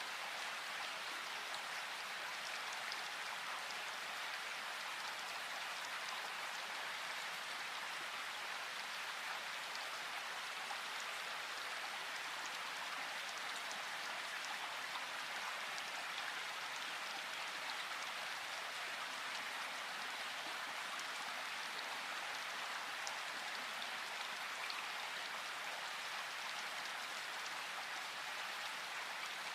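Steady rain falling in a forest, an even hiss of many small drops landing that holds unchanged throughout.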